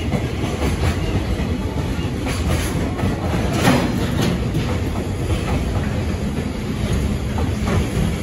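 Loaded container flatcars of a freight train rolling past: a steady rumble of wheels on rail, with the wheels clacking over rail joints. The loudest clack comes about three and a half seconds in.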